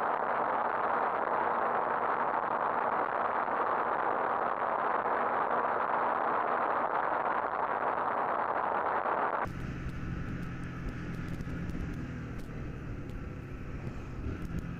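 Steady rushing wind and road noise from a motorcycle being ridden. About two-thirds of the way through it cuts abruptly to a quieter motorcycle engine running with a steady low hum.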